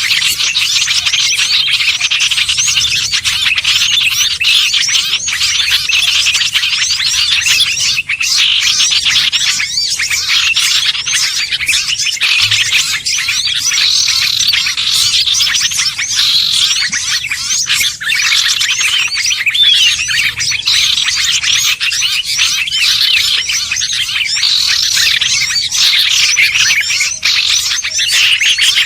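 Dense chorus of many small songbirds chirping and trilling at once, calls overlapping without a break. It is a mixed-species bird-lure recording of the kind used to draw small birds such as bulbuls, ioras, sunbirds and prinias.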